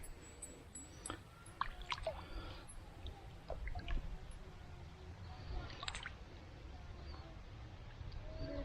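Faint water sloshing and dripping, with scattered small clicks and knocks over a steady low rumble.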